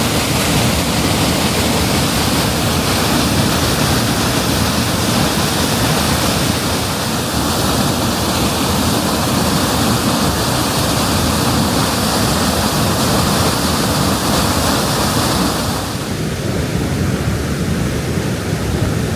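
Steinsdalsfossen waterfall in full spate after heavy rain: a loud, steady rush of falling water. About sixteen seconds in, the higher hiss drops off a little.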